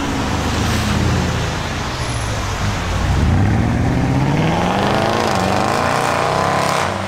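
Lexus LFA's V10 engine running as the car pulls away at low speed. Its pitch falls over the first few seconds, then climbs in a couple of rising revs through the second half.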